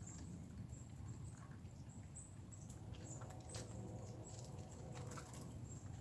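Faint outdoor ambience: a steady low rumble with scattered small ticks and taps throughout, and a faint high chirping that comes and goes.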